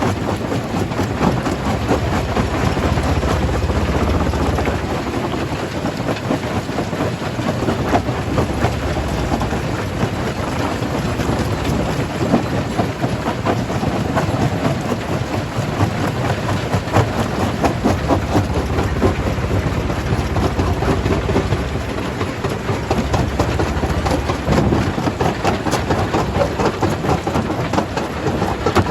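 Jaw crusher crushing rock: a continuous heavy rumble thick with the rattling and clacking of stones being broken and falling through the machine.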